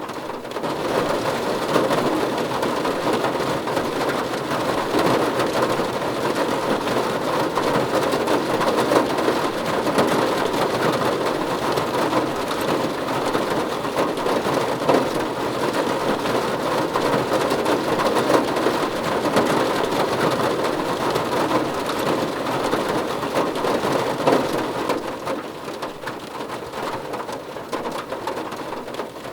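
Rain falling on a car roof: a dense, steady patter of many drops. It grows heavier about a second in and eases somewhat near the end.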